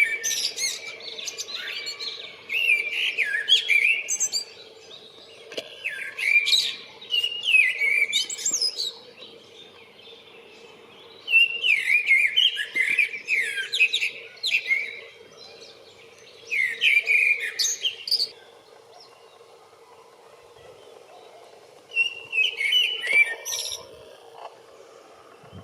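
Male Eurasian blackbird singing its spring song to attract a mate: six warbling phrases, each with high thin notes on top, separated by pauses of a few seconds. A faint steady hum runs underneath.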